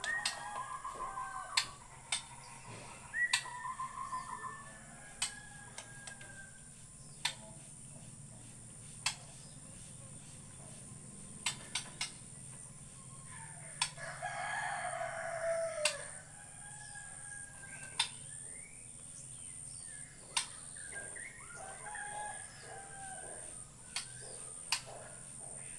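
A rooster crows once, about halfway through; it is the loudest sound. Around it, a white-rumped shama (murai batu) gives short whistled phrases that fall in pitch. Sharp clicks are scattered throughout over a steady high whine.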